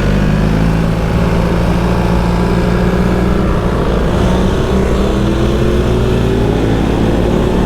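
BMW R1300GS boxer-twin engine running on track, heard on board. It holds a steady note, then rises in pitch as the bike accelerates over the last few seconds.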